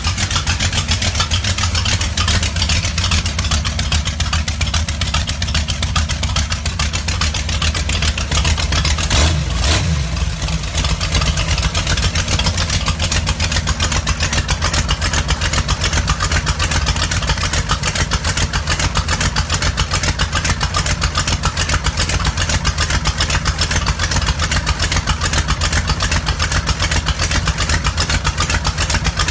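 1929 Ford Model A rat rod's engine running steadily, a loud, rapid, even exhaust beat, with a brief louder burst about nine seconds in.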